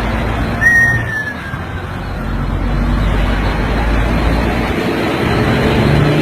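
Road and traffic noise from vehicles, with a brief high squeal that slides down in pitch just under a second in.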